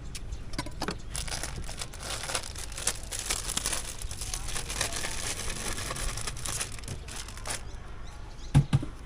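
Thin plastic bag crinkling and rustling as cut fruit is handled and packed, with two dull thumps near the end.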